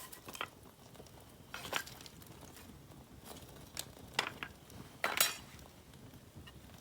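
Wood campfire crackling, with a handful of sharp pops and snaps, the loudest and longest about five seconds in.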